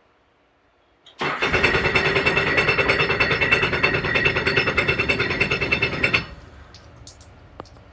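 Sea-Doo Fish Pro jet ski engine turned over on its electric starter for about five seconds in an even, rapid rhythm, then stopping without catching: a failed start.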